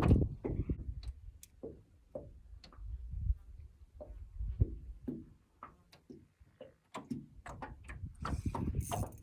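A series of irregular light clicks and knocks, with a short hiss near the end.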